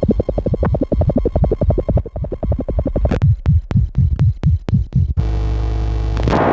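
Electronic synthesizer music from a Bastl Kastle and Korg Volca Modular: a fast throbbing pulse, then about four low pulses a second that each drop in pitch, then a steady low drone near the end.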